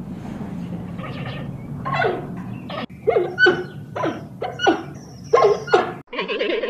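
Giant panda calling: a run of short, pitched calls that drop in pitch, coming in quick succession from about two seconds in, with two abrupt breaks.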